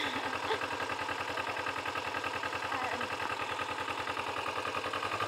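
Yamaha 250 motorcycle engine idling steadily with an even, fast pulse.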